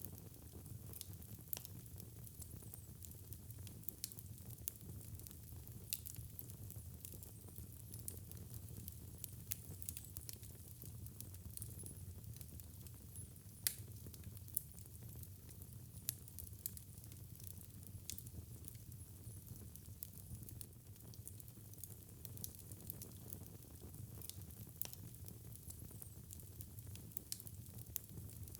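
Wood fire in a fireplace burning with a steady low rumble and scattered sharp crackles and pops, one louder pop about halfway through.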